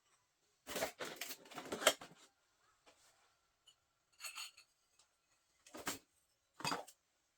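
Household objects such as dishes or utensils being handled, clinking and clattering. A busy burst of rattling comes about a second in, followed by three separate knocks.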